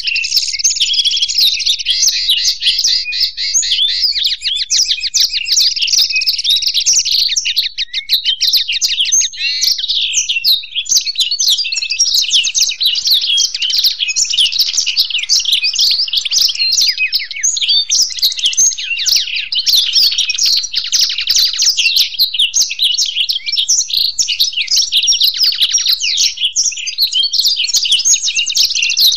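Black-throated canary and European goldfinch singing together in a continuous, fast jumble of trills, twitters and chirps with no pause.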